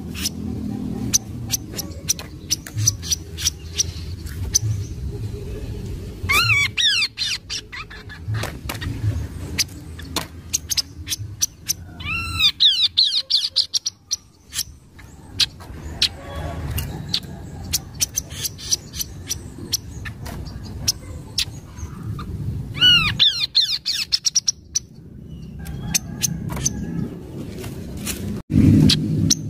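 Kaso-kaso bird song used as a lure call: a run of sharp, rapid clicking notes broken a few times by wavering whistled phrases, over a low background rumble.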